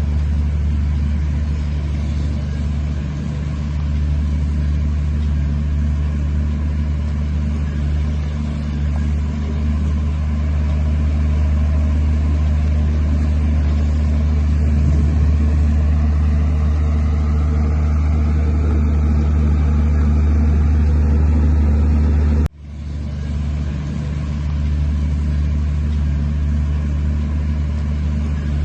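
Heavy diesel engine of earthmoving machinery running steadily with a deep, even drone. About three-quarters of the way through, the sound drops out abruptly for an instant and then comes back.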